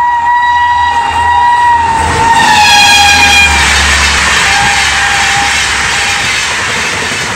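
An Indian Railways express train's horn is held in one long, loud blast as the train comes through at speed. Its pitch drops about two to three seconds in as the train passes, and then the rushing noise of the coaches going by takes over and slowly fades.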